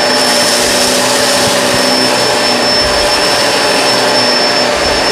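Kenmore Crossover Ultra upright vacuum running steadily with its brush roll on, a loud, even motor whine that holds one pitch.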